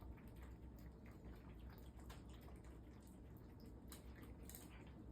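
Cats eating, faint irregular chewing and crunching clicks over a low steady hum.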